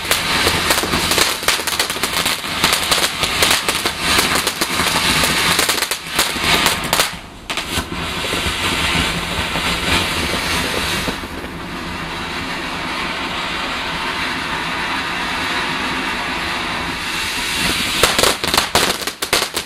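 Large garden firework fountain burning: a loud steady hiss with dense crackling, a brief drop about seven seconds in, a smoother hiss in the middle, and heavier crackling again near the end.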